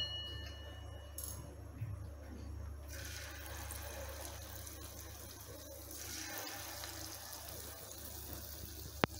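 Batter-coated egg pieces deep-frying in hot oil in a non-stick kadai, sizzling steadily. The sizzle grows louder about three seconds in. There is a single sharp click near the end.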